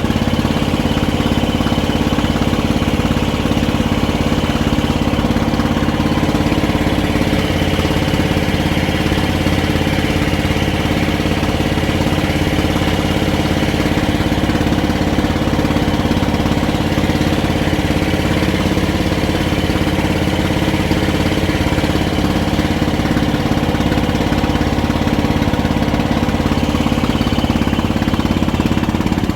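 Engine of a klotok, a small wooden river motorboat, running steadily at an even speed.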